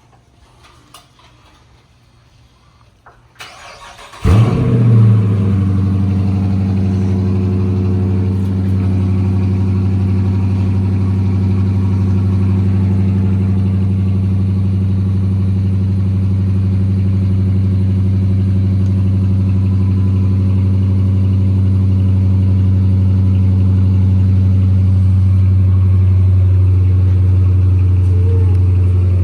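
Chrysler 300S's 5.7-litre HEMI V8 cold-started on a 40 °F day: a short crank about four seconds in, then the engine catches with a flare of revs and settles into a steady idle.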